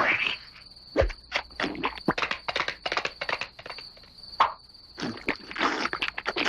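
A steady high insect trill, like crickets, with many short irregular clicks and noisy rustling sounds over it.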